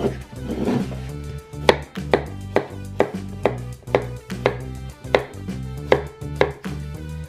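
Chef's knife chopping a zucchini on a wooden cutting board: a drawn slicing cut through the zucchini, then sharp knocks of the blade on the board about twice a second as it is cut into chunks. Background music plays underneath.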